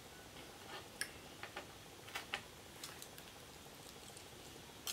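Faint, irregular mouth clicks of chewing a forkful of loaded fries.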